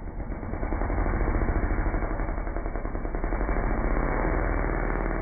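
Dirt bike engine running, a steady low sound with a rapid regular pulse.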